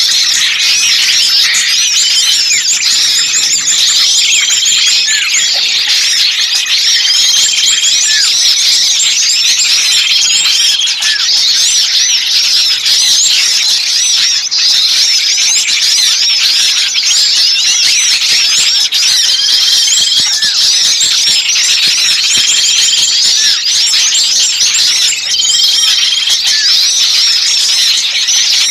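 Bird-lure recording of many small songbirds chattering noisily at once, dense high chirps and squeaks, with a short level whistled note recurring every few seconds. It is the agitated calling of small birds, meant as a 'trapped bird' (kejepit) lure to draw other birds in.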